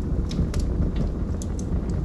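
Wood fire burning in a fireplace: a steady low rumble of the flames with about half a dozen small, sharp crackles from the burning logs.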